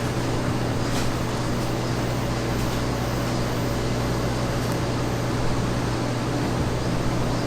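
Steady mechanical hum with a constant low drone over an even background noise.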